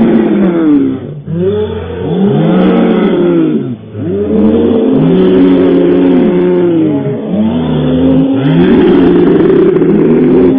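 A vehicle engine revved up and let back down over and over, its pitch rising and falling about every one to two seconds.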